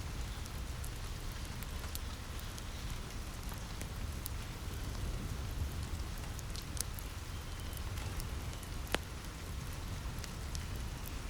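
Steady rain falling on a cabin roof, with a low rumble under it, blended with a crackling fire: scattered sharp pops and clicks, one louder pop about nine seconds in.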